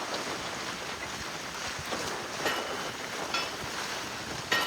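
Bell buoy ringing irregularly: its clappers strike the bell a few times as the buoy rolls in the waves, each strike a short ring. Wind and water rush behind it.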